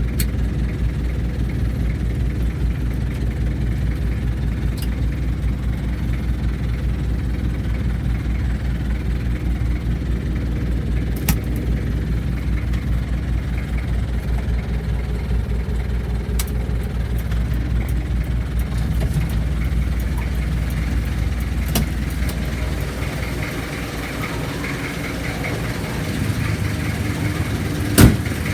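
1994 Kia Ceres 2.4 diesel engine idling steadily with an even low pulse. About 23 seconds in the sound changes, the deep pulsing fading and a higher whine coming up, and a single sharp knock sounds near the end.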